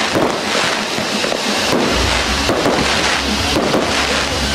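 Fireworks: a row of ground fountains spraying with a steady hiss, broken by several sharp cracks from pyrotechnics going off overhead.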